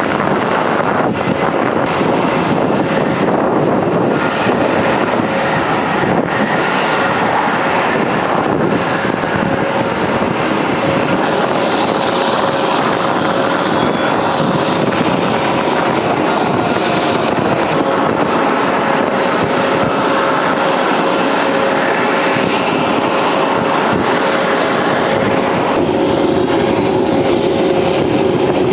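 Military jet aircraft engines running, a loud steady noise with a held whine through it; the whine drops and strengthens near the end.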